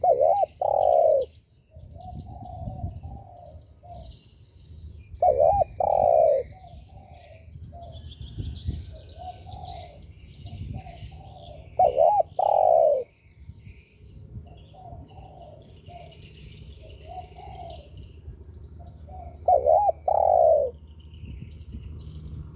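Spotted dove cooing: four loud two-part coos, a short note then a longer one, about every seven seconds, with softer coos in between. Small birds chirp faintly in the background.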